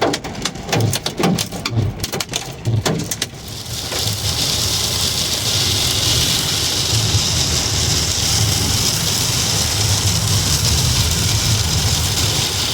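Hailstones clattering rapidly and irregularly on a car's sheet metal and windshield for the first few seconds, then giving way to a steady rushing hiss of rain and road noise over a low engine hum.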